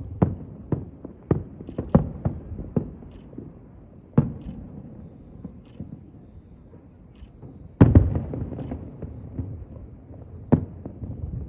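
Aerial fireworks bursting: a quick run of sharp bangs over the first three seconds, then scattered single bangs, each trailed by a low rumble. The loudest bang comes about eight seconds in.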